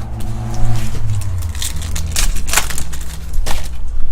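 Trading card packs and cards being handled, with crackling, crinkling rustles and small sudden scrapes of foil wrappers and card stock, over a steady low hum.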